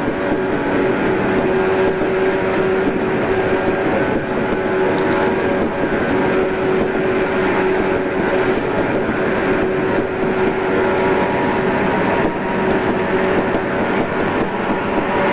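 JR East 113 series electric train running at a steady speed: a continuous rumble of wheels on rail with a steady hum of motors and gears that holds one pitch.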